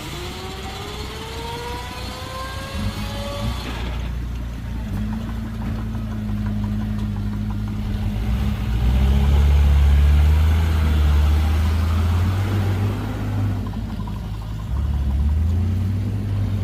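Heavy diesel engine of earthmoving machinery working under load. A rising whine climbs over the first three and a half seconds and stops about four seconds in, then a deep engine drone swells, loudest around the middle, and eases off.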